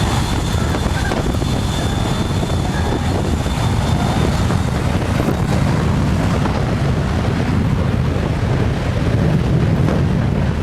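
Boeing 727's three jet engines at takeoff thrust, blasting the beach behind the runway: a loud, steady roar of jet blast buffeting the microphone. A thin high whine fades out about four seconds in.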